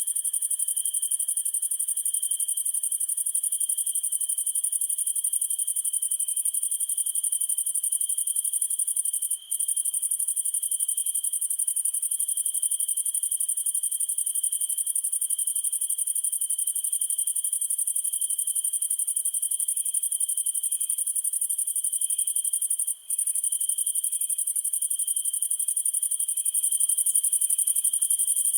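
Dense chorus of crickets and other night insects trilling steadily, a high continuous buzz with a softer pulsing chirp beneath it. The sound drops out for an instant twice, about nine seconds in and again near twenty-three seconds.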